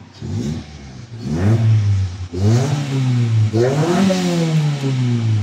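Toyota Corolla's four-cylinder engine, running after a fuel pump replacement, is revved up and let back down about three or four times, its pitch rising and falling with each blip of the throttle. It restarted on the first turn of the key, a sign that the hard start is cured.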